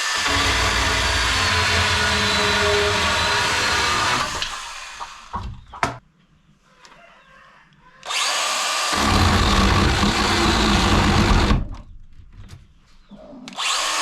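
A power tool running in three long bursts with short pauses between.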